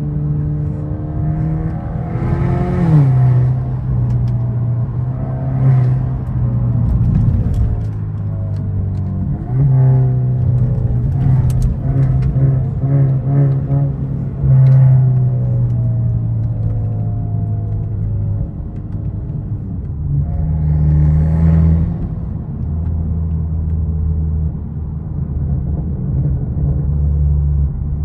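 Big-turbo Genesis G70 2.0T's turbocharged four-cylinder pulling through the gears on a drive: engine pitch rises, drops sharply at a shift and settles into a steady drone. There are several short hissing rushes along the way.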